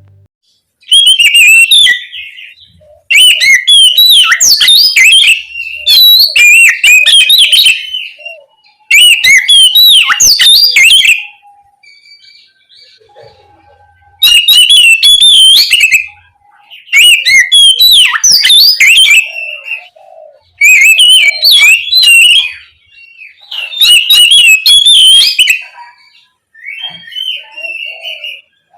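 Oriental magpie-robin singing loudly: bursts of rapid, varied whistled notes, each about two seconds long, separated by short pauses, with a fainter phrase near the end.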